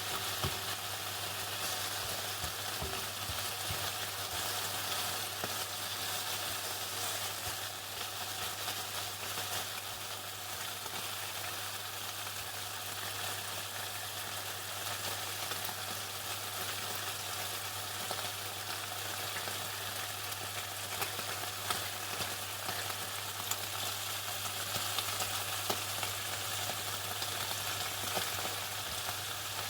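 Chicken deep-frying in hot oil: a steady, dense crackling sizzle with scattered sharper pops, over a low steady hum.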